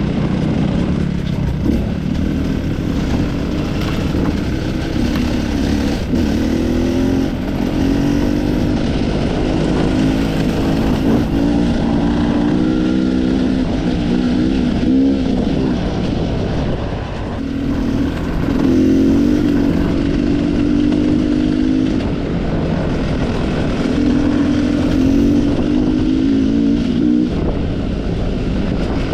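Enduro dirt bike engine running under constantly changing throttle. Its pitch holds for a few seconds, climbs, then eases off again and again, with a brief drop in revs about halfway through.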